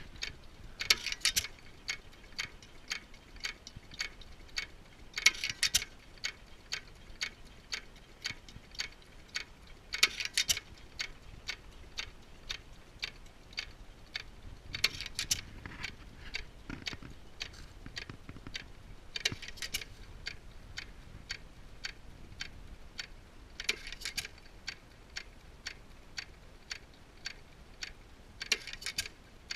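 Antique hit-and-miss gas engine running: a regular click about twice a second as it coasts, broken by a louder firing stroke roughly every four to five seconds when the governor lets it fire again.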